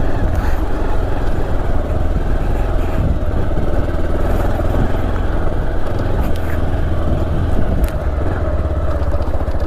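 Motorcycle engine running steadily while riding along a gravel road.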